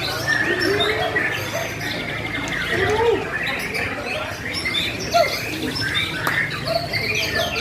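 White-rumped shamas (murai batu) singing over one another: a dense run of varied whistles, rising and falling glides and chattering phrases, with a steady low hum underneath.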